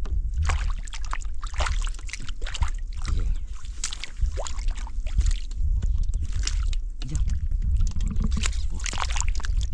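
Water splashing and sloshing in a stream, in many short irregular splashes over a steady low rumble.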